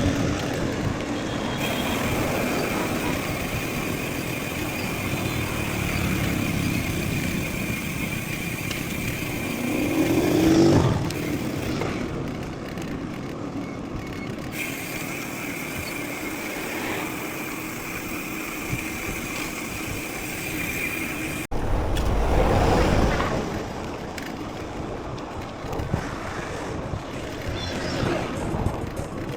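Mountain bike riding noise picked up by a chest-mounted action camera: tyre rumble and rattle with a steady high whine. A motor vehicle swells past about ten seconds in, and after a sudden cut another loud pass comes around the two-thirds mark.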